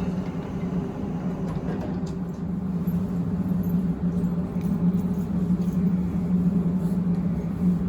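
Abukuma Express 8100 series electric train heard on board: a steady low hum over a rumble, swelling slightly in the middle.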